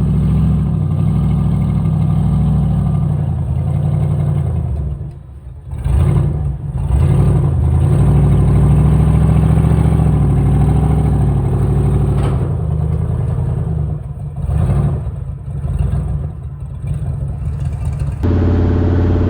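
Turbocharged 6-liter V8 engine of a Chevrolet C10 truck running through its mufflers. The engine note drops away briefly about five seconds in, and several more times around fifteen seconds in, before an abrupt change near the end.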